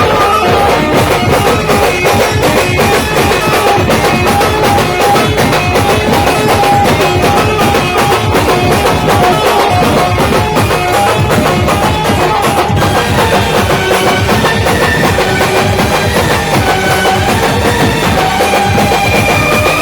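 A Maharashtrian village band playing loudly: a fast, steady drum beat runs under a melody that steps between held notes, without a break.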